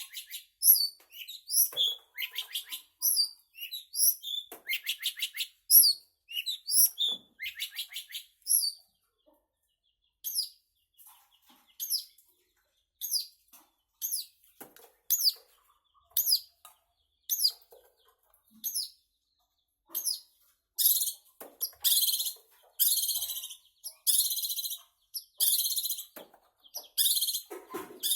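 Long-tailed shrike singing: quick, varied high chirps and short trills at first, then spaced single sharp notes, then from about two-thirds of the way through a run of loud, harsh rasping calls.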